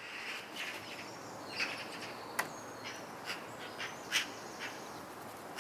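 Outdoor ambience: birds chirping now and then in short, high calls over a steady background hiss.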